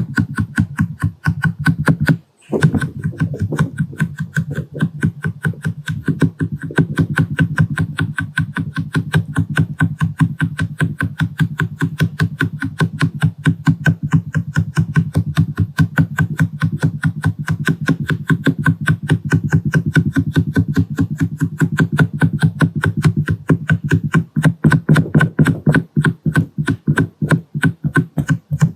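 Fast, steady tapping of a silicone makeup sponge stamped against the camera lens, several soft dull taps a second, with a brief pause about two seconds in.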